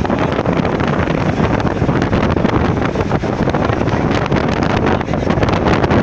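Loud, steady rushing noise with no break, of the kind made by wind buffeting the microphone or by a nearby waterfall.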